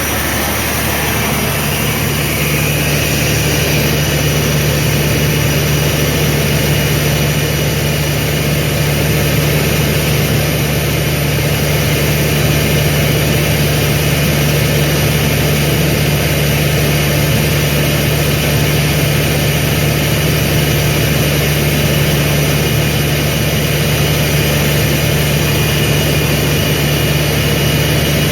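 Sullair portable air compressor powered by a Caterpillar C15 inline-six diesel, running at a steady speed with a deep, even drone that settles in about a second in.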